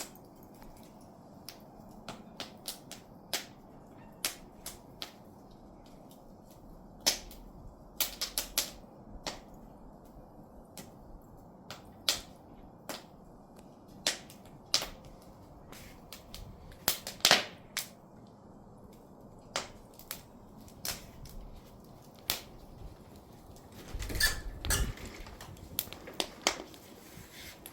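Firewood burning in an open fire, crackling with irregular sharp pops over a faint steady hiss, with a quick flurry of louder pops near the end.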